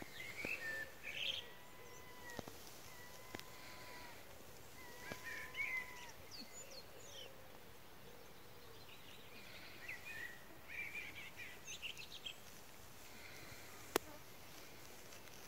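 Wild birds singing faintly in short, chirpy phrases, with three long, level whistled notes in the first six seconds. A single sharp click comes near the end.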